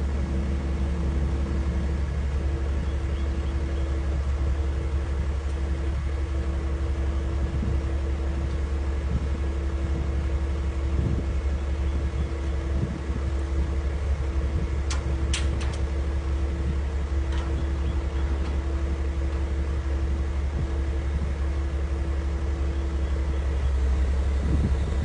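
A heavy vehicle's engine running at a steady idle, a constant low rumble. A few short clicks come through about fifteen seconds in.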